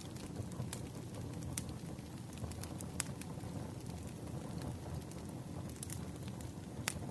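Campfire crackling: irregular sharp pops and snaps of burning wood over a steady low rush of flame.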